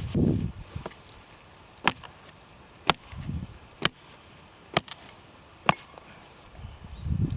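Wood being chopped: a row of sharp single strikes, about one a second, with rustling movement at the start and again near the end.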